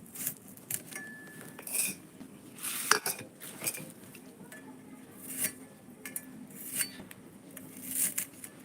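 Kitchen utensils and dishes clinking and clattering: scattered sharp knocks, some with a brief metallic ring.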